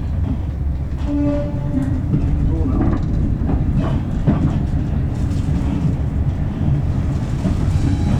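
Railway train running, a steady low rumble with some clicking, and a short pitched tone about a second in.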